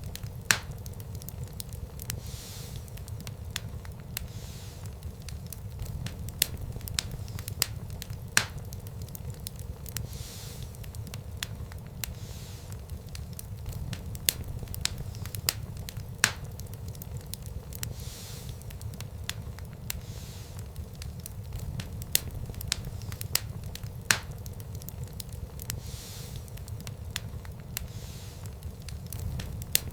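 Wood fire in a fireplace crackling, with many small pops and a few louder snaps over a steady low rumble of the flames.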